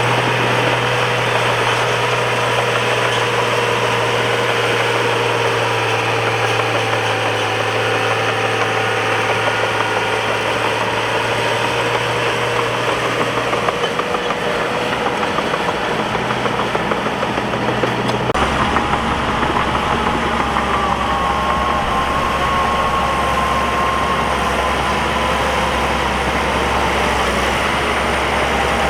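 Bulldozer's diesel engine running steadily. Its note changes abruptly about two-thirds of the way through.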